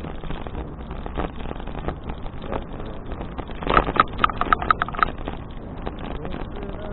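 Riding noise from a touring bicycle heard through a handlebar action camera: steady wind on the microphone and tyre and rattle noise over the path. About four seconds in comes a quick run of about six sharp, ringing ticks.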